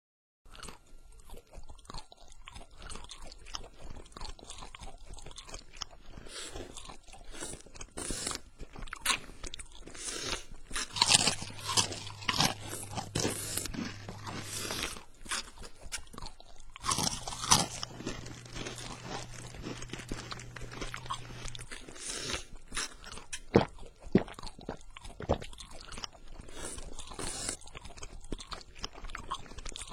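Crunching and chewing: many short, sharp crunches through the whole stretch. A low steady hum sounds twice for a few seconds in the middle.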